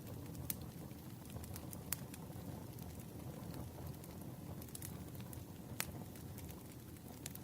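Campfire crackling: a steady low rumble of burning wood with sharp pops scattered irregularly through it, the loudest about half a second, two seconds and six seconds in.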